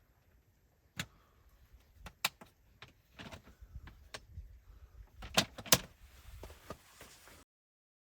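Irregular clicks and knocks, with two loud knocks about five and a half seconds in, then the sound cuts off abruptly near the end.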